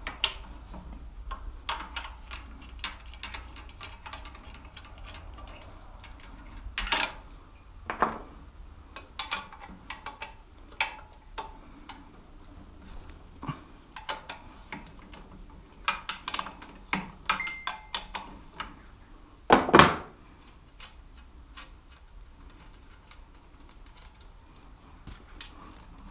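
Metal hand tools clinking and tapping on a small motorbike's front-end parts during dismantling: scattered irregular clicks and knocks of spanners and sockets on metal, with one louder clatter about twenty seconds in.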